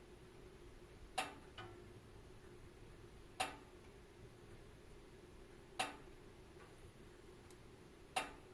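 Wood fire crackling: sharp single pops about every two to two and a half seconds, one with a smaller pop just after it, over a faint steady hiss of the flames.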